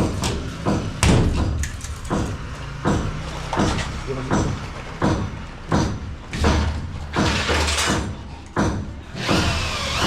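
Sharp knocks repeating roughly once a second, over a low steady hum: tool strikes from work on a fibre-cement ceiling.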